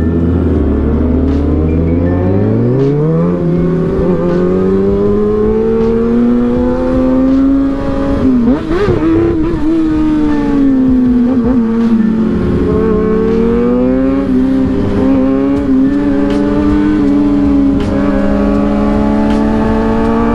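A vehicle engine pulling hard, its pitch climbing steeply a few seconds in, then running on at high revs, with the revs dropping and rising again twice.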